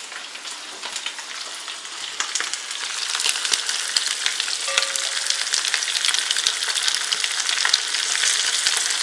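Eggs and macaroni frying in an open pan: a dense sizzle full of sharp crackling pops, growing louder over the first few seconds and then holding steady.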